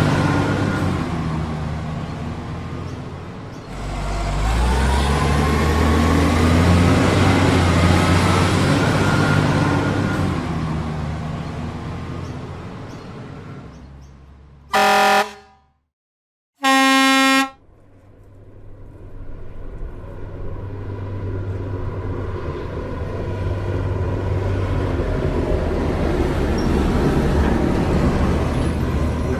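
A truck engine sound rumbling and slowly fading out, then two short, loud horn honks about two seconds apart near the middle, after which the engine rumble builds back up.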